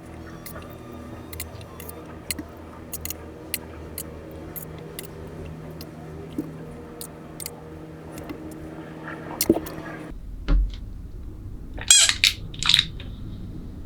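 Small sharp clicks and taps of plastic toy parts being handled during disassembly, over a steady low hum. The sound changes abruptly about ten seconds in, followed by a quick cluster of louder clicks.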